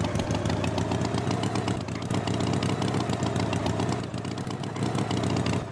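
Engine running steadily with a fast, even putter.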